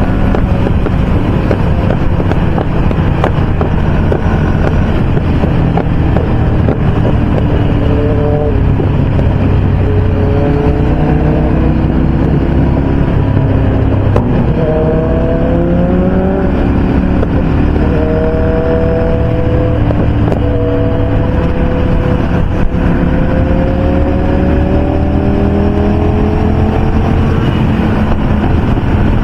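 Motorcycle engine pulling at highway speed under a steady roar of wind and road noise. Its note climbs, drops sharply at gear changes about a third and about halfway through, then rises slowly again.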